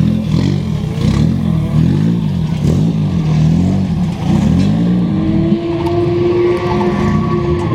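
A car engine revving up and down repeatedly, then climbing about halfway through and holding a steady high pitch for about three seconds before dropping away near the end.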